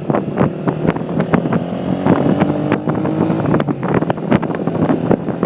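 Motorcycle engine running on the move, a steady hum under heavy wind buffeting the microphone.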